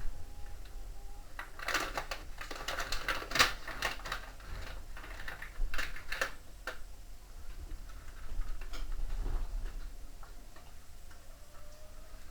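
Irregular clicking and rattling of hand tools and parts being worked on a washing machine during reassembly, in two busy spells: one from about one and a half seconds in and another around the middle.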